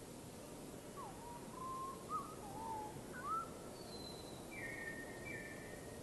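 A bird calling in a string of clear whistled notes, several sliding up and down in pitch, then a higher falling note and two short level notes near the end, over a faint steady hiss.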